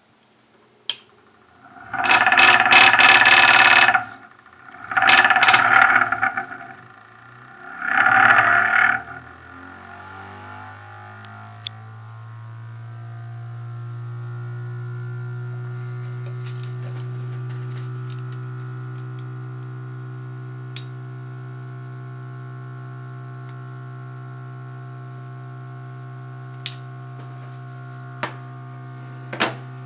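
Three loud bursts of noise, then a home-built magnetically levitated generator rotor humming steadily at high speed, its pitch rising a little as it spins up and then holding level. A few sharp clicks near the end.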